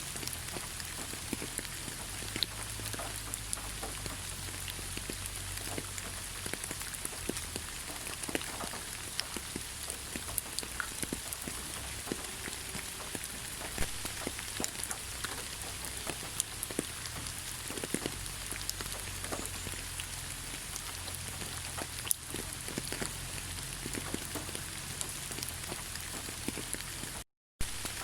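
Steady rain falling in a forest, with many sharp single drops landing close by throughout. The sound cuts out completely for a split second near the end.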